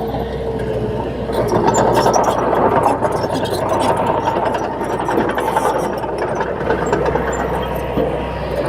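Diesel engine of a crawler bulldozer running under steady work, with scattered short clicks and clanks over the engine sound.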